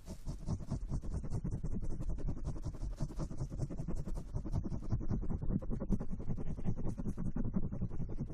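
Fast, continuous scratching and rubbing right against an ASMR microphone, many strokes a second and heaviest in the low range, typical of hair-washing scrubbing on a mic.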